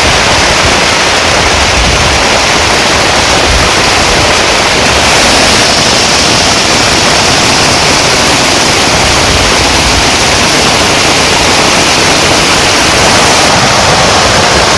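Heavy rain falling in a loud, steady downpour.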